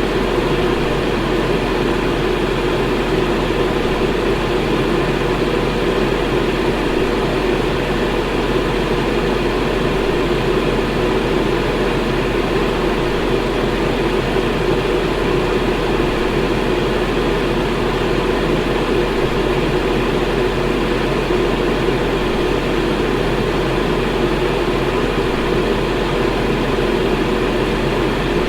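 Electric fan running at a steady speed: an even, unbroken whoosh of moving air with a low hum underneath.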